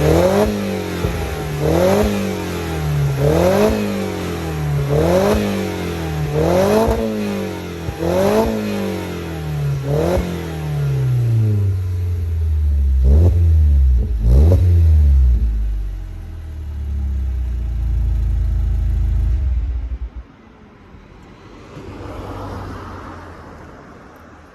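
Alfa Romeo Brera's 2.2 JTS four-cylinder engine breathing through an ARQRAY aftermarket muffler, blipped over and over: about seven quick revs roughly a second and a half apart, then two sharper blips. It then idles steadily and stops near the end.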